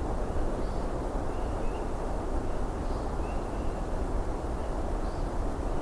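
A distant eastern whip-poor-will singing: faint short calls repeated about once a second, heard over a steady rushing background noise that is louder than the bird.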